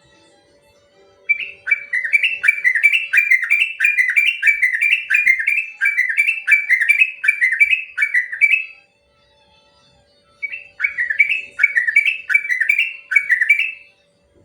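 Yellow-vented bulbul singing its long rolling 'ropel' song: a fast run of repeated, down-slurred whistled notes, about two to three a second. It sings two bouts, the first lasting about seven seconds and the second starting after a pause of just over a second and running about three and a half seconds.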